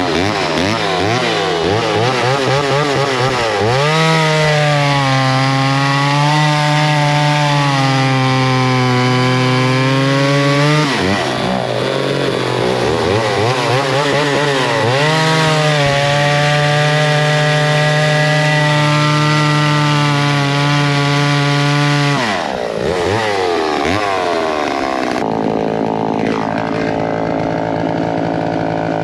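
Vintage two-stroke chainsaw cutting firewood, held at high, steady revs through two long cuts of about seven and nine seconds. It drops back briefly between them and settles to a lower, quieter run near the end.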